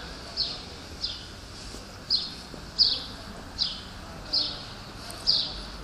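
A small bird repeating a short, falling chirp about seven times, roughly one chirp every 0.7 seconds.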